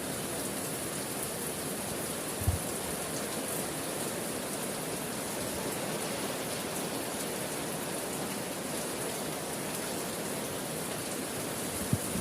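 Steady rain falling, an even hiss of drops, with one short low thump about two and a half seconds in.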